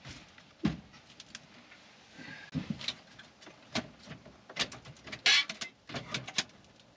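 Irregular clicks, knocks and short scrapes of dash and gauge-cluster parts being handled and pulled about, with a brief faint squeak about two seconds in.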